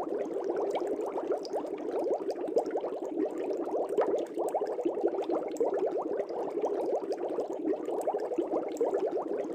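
Aquarium air bubbles rising and bubbling in a fish tank: a dense, steady stream of small watery blips and gurgles.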